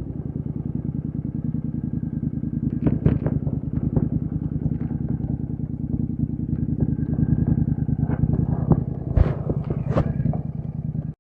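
Royal Enfield Interceptor 650 parallel-twin running steadily through an aftermarket AEW te101 exhaust, a low even burble. A few sharp clicks come about three seconds in and again near the end, and the sound cuts off suddenly.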